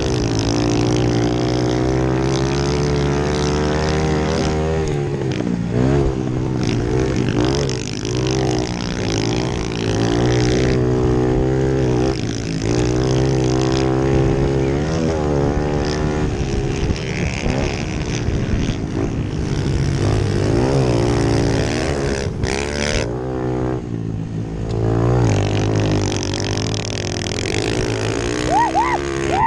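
Pit bike engines racing, their pitch rising and falling again and again as the throttle opens and closes through the gears and corners.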